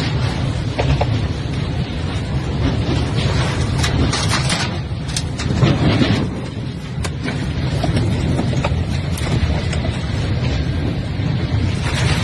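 Squall wind gusting hard across the microphone, a heavy low buffeting rumble, with scattered sharp knocks and rattles a few seconds in.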